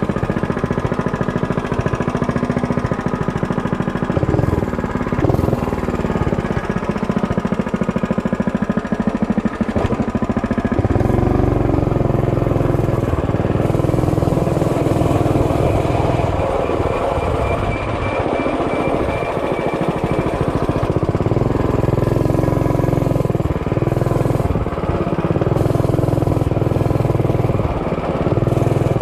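Mini bike's small engine running with a rattly note, its pitch and strength changing about a third of the way through.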